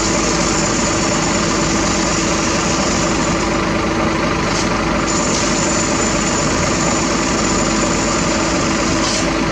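Heavy diesel engine running steadily at idle, with a constant hum and a thin high whine that drops out briefly about halfway through and again near the end.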